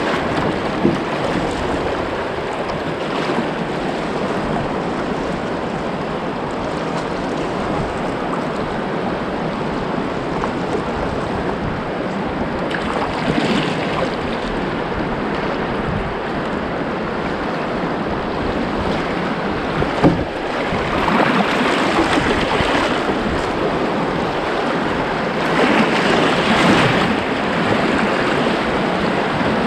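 Rushing river whitewater around a canoe running a rapid, a steady loud wash of water with stronger surges in the second half and a couple of sharp knocks.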